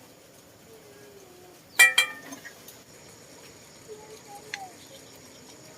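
A single sharp clink of kitchenware struck together, ringing briefly, about two seconds in.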